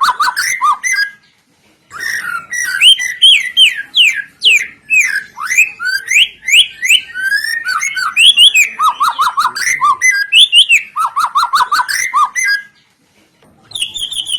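A songbird's song recording, used as a lure to make caged white-rumped shamas sing. It is a loud, varied stream of rapid whistles, slurred notes and trills, broken by a brief pause about a second in and another near the end.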